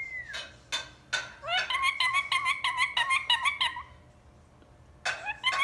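Pet ring-necked parakeet calling: a short falling whistle, a few sharp chirps, then a rapid run of chattering notes lasting about two seconds, with a few more chirps near the end.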